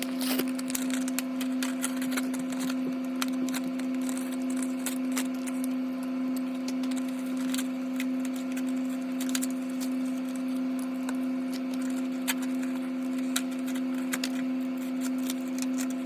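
Many quick, irregular clicks and crackles of toy packaging being opened, over a steady low hum.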